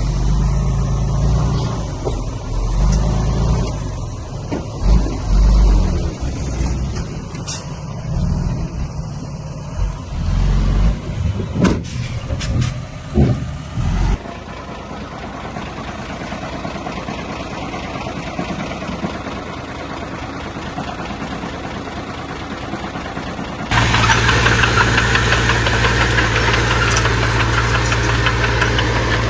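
Heavy diesel machinery working. For about the first half an engine rumbles unevenly with a few knocks and clanks; it then drops to a quieter steady running, and for the last few seconds a loud, steady engine drone sounds close by.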